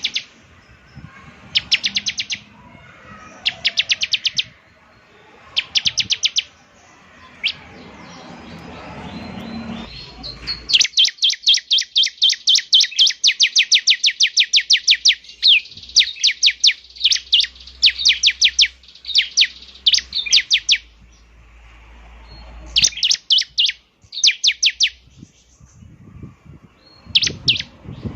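Bar-winged prinia (ciblek) singing: rapid trains of sharp, high, ticking notes in short bursts of about a second. In the middle the bursts run together into a long, nearly unbroken stretch of about ten seconds.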